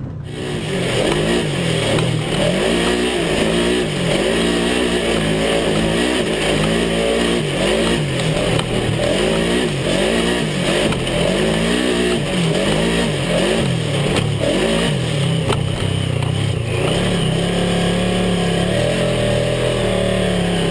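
Side-by-side off-road car's engine running hard while driving over sand dunes, its revs rising and falling every second or so, then holding steadier and higher for the last few seconds.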